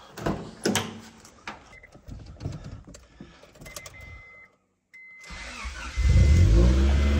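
Keys jangling and clicks and knocks as someone gets into an older Honda car, with a few short high beeps. Then the car's engine is cranked and starts about six seconds in, settling into a loud steady run.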